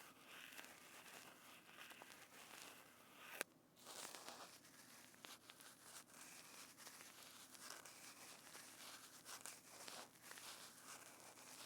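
Faint, continuous crackling and crinkling from a trigger material being squeezed and worked close to a binaural microphone, with one sharp click a little over three seconds in.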